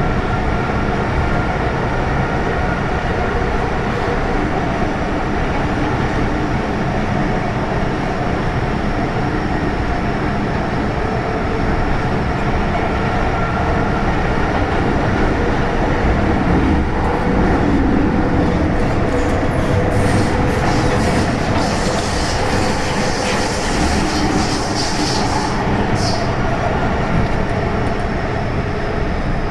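MTR M-Train electric multiple unit running along the track with steady running noise and faint steady whine. A little past halfway a high squeal or hiss joins in and cuts off abruptly near the end, typical of wheels squealing on a curve.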